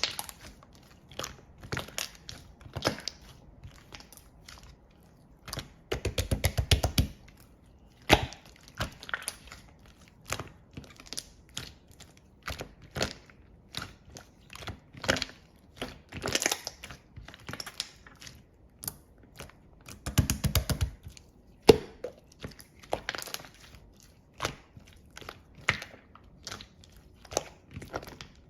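Slime being squished and pressed by hand, giving scattered sticky clicks and pops, with two spells of rapid crackling, about six seconds in and about twenty seconds in.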